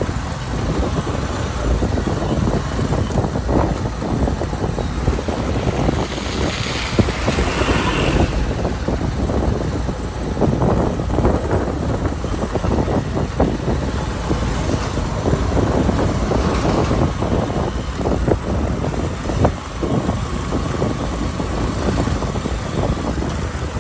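Motor vehicles on a rough, muddy road: a steady engine and road rumble with many short knocks and rattles throughout.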